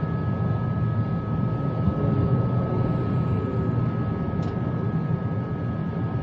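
Steady machine hum: a low drone with two steady high whining tones over it, unchanging throughout.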